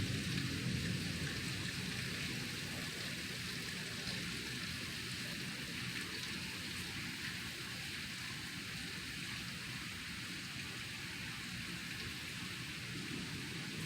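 Heavy rain pouring down steadily, with a low thunder rumble dying away in the first second or so.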